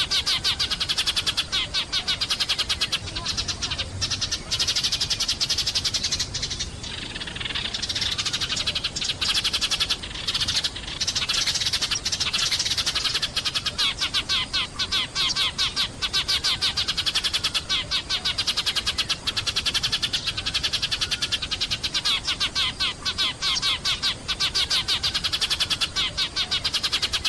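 Sparrows chirping continuously in dense, rapid, overlapping chirps, like a chattering flock.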